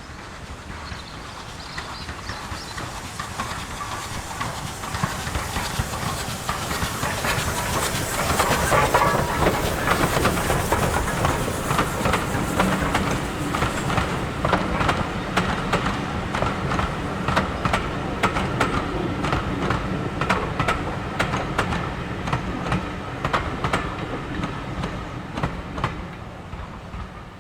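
Steam-hauled train passing on a heritage line. It grows loudest about nine seconds in, then the coach wheels click over the rail joints as the train rolls by, fading near the end.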